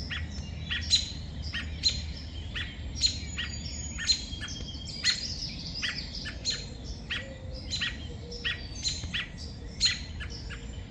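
American robin giving sharp, repeated alarm calls, a loud one about every second with softer calls between. The uploader takes these for the robin's distress after a crow took its nestlings.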